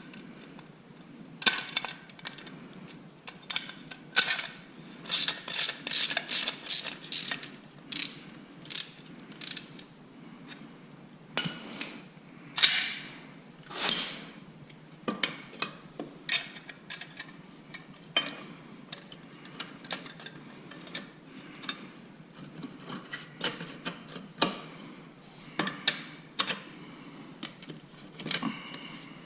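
Ratchet wrench clicking in short runs as fasteners are turned, between scattered single clicks and knocks.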